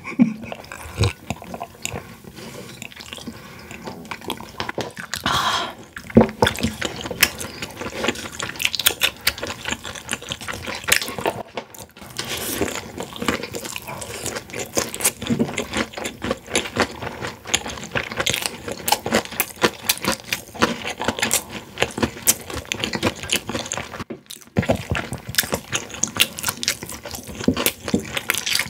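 Close-miked chewing of boneless fried chicken by two people: a dense, irregular run of crunches and mouth clicks.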